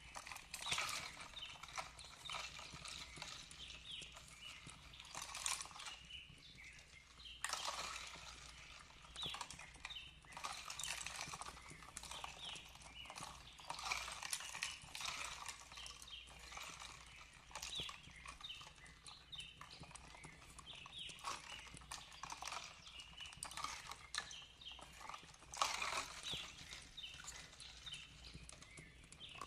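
Fireplace crackling with irregular pops and snaps, and small birds chirping softly in the background.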